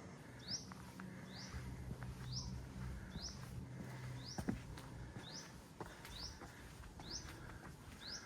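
A bird repeating one short, high, rising note evenly, just under a second apart, about nine times. Under it a low steady hum comes in about a second and a half in and fades about five seconds in, with a few faint clicks.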